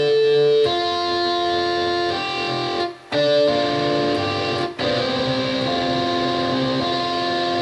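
Roland Integra-7 sound module playing a guitar patch from a keyboard: a run of held chords, changing every second or two, with two brief breaks between them.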